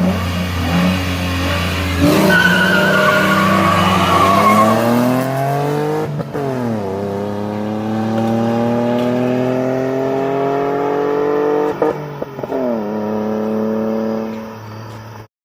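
Nissan V6 engine held at high revs on the line, then launching at full throttle with a brief tyre squeal, climbing in pitch through the gears with two upshifts, about six and twelve seconds in. The sound cuts off abruptly near the end.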